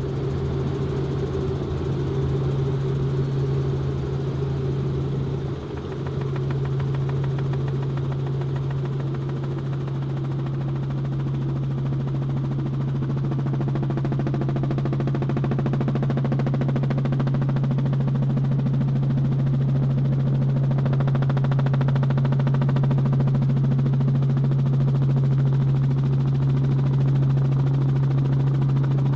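Agricultural spraying helicopter running steadily, a strong low hum from its engine and rotor over a constant noise, with a brief dip about six seconds in.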